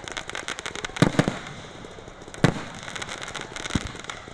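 Aerial fireworks display: shells bursting with loud booms, two close together about a second in, another sharp one about two and a half seconds in and a smaller one near the end, over continuous dense crackling.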